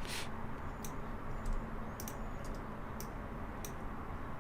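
Scattered sharp clicks of a computer mouse and keyboard, about eight in the space of a few seconds, over faint steady room noise.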